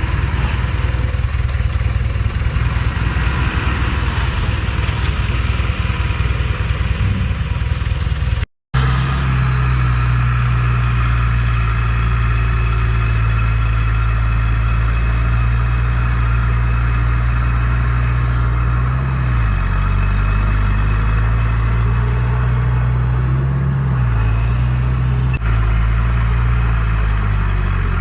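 Heavy diesel engine of earthmoving machinery running continuously. The sound cuts out for a moment about a third of the way in; after that the engine drone is steadier and dips in pitch twice.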